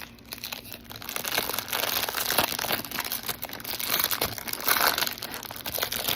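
Snack wrapper crinkling continuously, with irregular crackles, as it is handled and opened.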